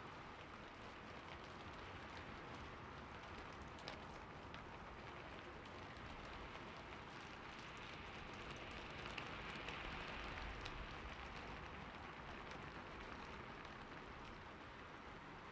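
Steady rain falling on a roof: an even patter with individual drops ticking here and there, swelling slightly about halfway through.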